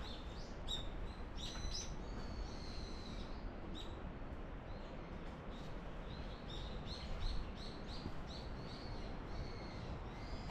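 Small birds chirping in short, high notes, with a quick run of repeated notes in the second half, over a steady low rumble.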